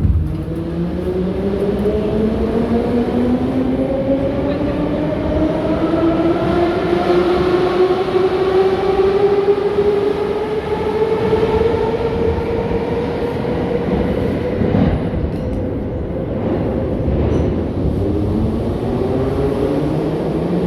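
81-717.6 metro train's traction motors whining as it accelerates: the whine rises steadily in pitch for about ten seconds, then levels off over the running rumble of the wheels. A second rising whine starts near the end.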